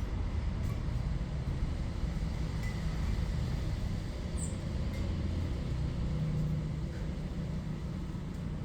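Steady low outdoor rumble, with one short high, falling chirp about four and a half seconds in.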